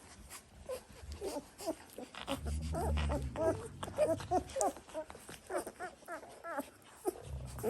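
Three-week-old Dalmatian puppies squeaking and whimpering in many short cries, with a low rumble about two and a half seconds in.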